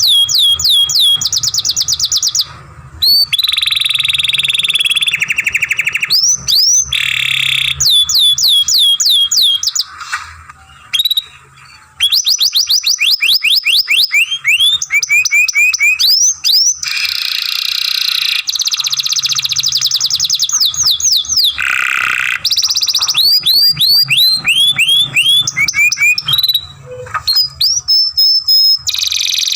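Young canary singing a long song made of fast runs of repeated sweeping whistled notes and rolling trills, with short breaks, the longest about ten seconds in.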